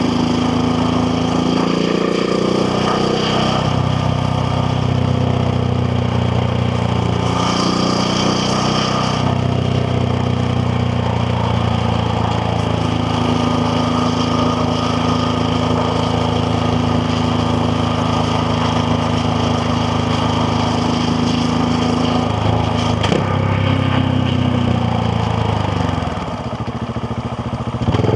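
KTM Duke 690R's single-cylinder engine running under way. It holds steady revs for a long stretch, then the revs drop near the end and pick up again.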